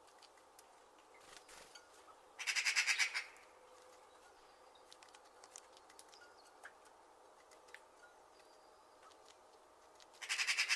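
A bird giving a short, rapid rattling call twice, once about two seconds in and again near the end, over faint scattered ticks.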